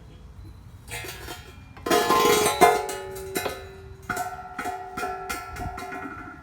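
Metal parts knocking and clanking together, a steel piece ringing on with a bell-like tone after the strikes. A rattling start about a second in, the loudest clanks around two seconds in, then a handful of lighter knocks.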